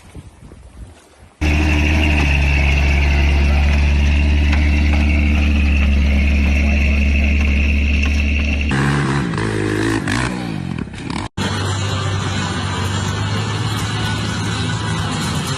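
Off-road truck engines: one starts loud and holds a steady drone, then revs with the pitch rising and falling about nine seconds in. A sudden cut a little after eleven seconds switches to another steady engine drone.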